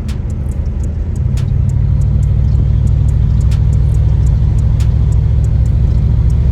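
Car on the move, a heavy low rumble that steps up in level about a second in and then holds steady.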